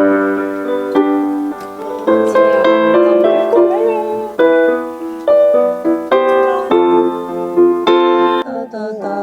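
Piano playing the melody of a Cantopop song as a series of sustained notes and chords, for players to guess the song.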